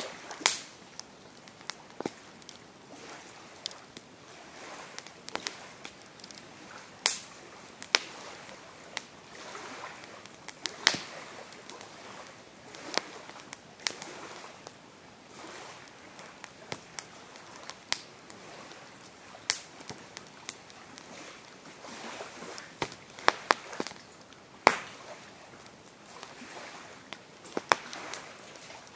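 Campfire crackling: burning wood snapping and popping at irregular intervals, with several sharp pops and small clusters of snaps over a soft, low hiss.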